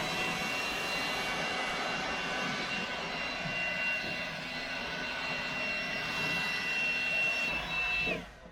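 A small electric motor driving a fan runs at steady speed, giving a high whine over rushing air. It winds down and cuts off about eight seconds in.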